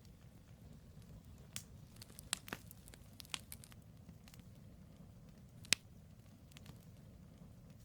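Campfire logs burning and crackling: irregular sharp pops and snaps, a small cluster a couple of seconds in and the loudest single pop about three quarters of the way through, over a steady low rumble of the fire.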